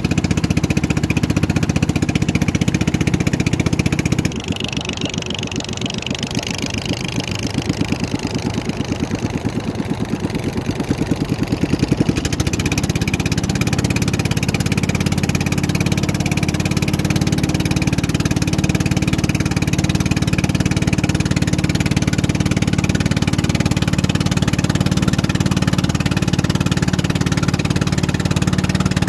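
Motorboat engine running steadily. About four seconds in it drops to a lower speed with a clearly pulsing beat, then picks up again about twelve seconds in and runs evenly.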